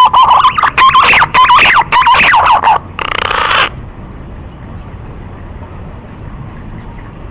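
Green pigeon (punai) call, as played to lure the birds: a quick run of whistled, warbling notes around one pitch with fast slides up and down, then a short harsh rasp about three seconds in. After that only a faint steady hiss remains.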